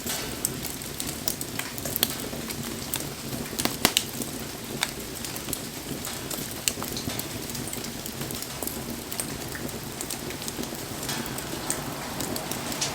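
Wood fire crackling with scattered sharp pops over a steady hiss of falling rain; the loudest pops come about four seconds in.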